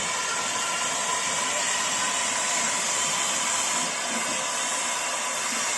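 Steam locomotive releasing steam: a steady, even hiss with no chuffing beat.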